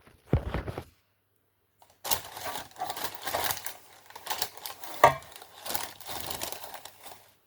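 Close handling noise: a rapid run of clicks, taps and rustling right at the microphone, with one sharp knock about five seconds in.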